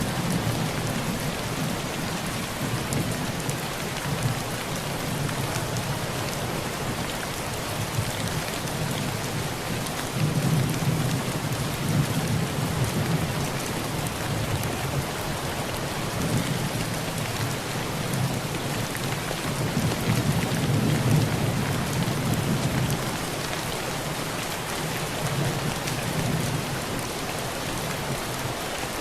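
Heavy rain falling steadily on a tin roof, with low rolls of distant thunder swelling twice, about ten seconds in and again about twenty seconds in.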